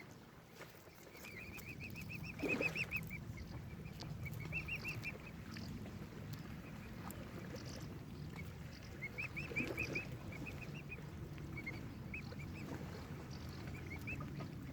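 Waterbirds calling in several quick runs of short, high peeping notes, with one louder, lower call about two and a half seconds in, over a steady low rumble.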